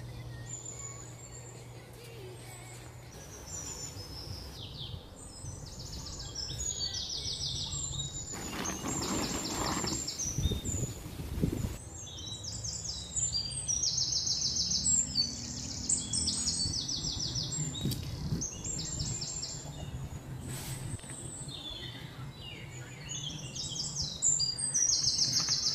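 Birds chirping, calling again and again in quick runs of high, evenly spaced notes over low background noise. A brief rushing noise comes about a third of the way through.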